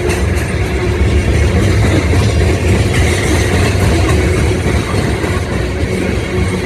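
Diesel freight locomotives working, a steady heavy engine rumble with a low hum.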